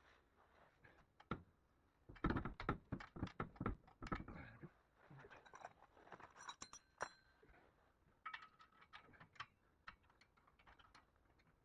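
Faint handling noise from metal tools or parts: a quick run of clicks and knocks about two seconds in, a few brief ringing clinks around the middle, then scattered ticks.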